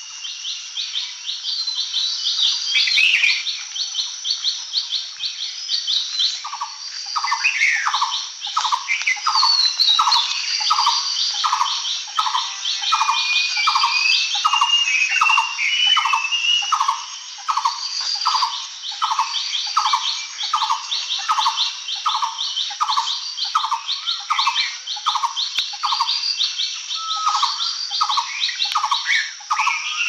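A chorus of birds singing and calling over a steady high hiss. Fast runs of short high notes repeat throughout. From about seven seconds in, a lower call repeats about twice a second until near the end.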